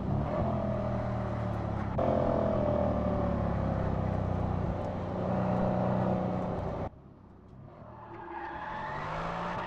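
Mercedes-AMG C 63 S Coupe's 4.0-litre twin-turbo V8 pulling hard, its pitch slowly falling across a couple of abrupt edits. About seven seconds in the sound drops off suddenly, then the engine builds again with its revs wavering up and down.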